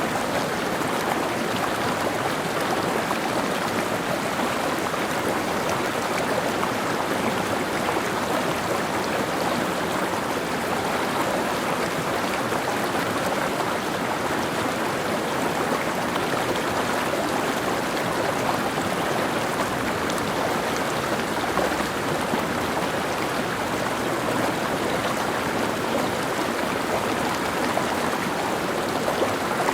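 Mountain stream, water running and splashing steadily over rocks.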